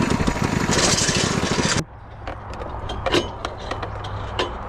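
Small single-cylinder four-stroke mini-bike engine (99cc) running hard with fast, even firing pulses and a rush of wind. About two seconds in it cuts off abruptly, leaving a low hum with scattered clicks and knocks.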